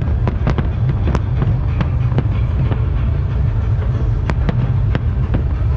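Fireworks display going off: sharp, irregular pops and cracks, a few a second, over a steady low rumble.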